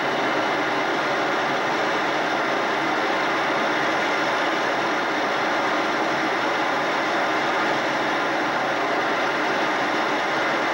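Steady jet aircraft noise: an even rushing sound with a low hum, unchanging throughout.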